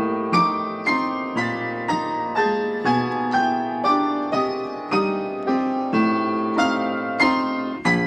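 Background music: a piano playing a steady run of single notes, about two notes a second.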